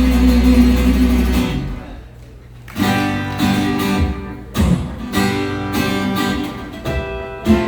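Instrumental break in a song, led by strummed acoustic guitar. A held chord dies away about two seconds in, then the strumming starts up again.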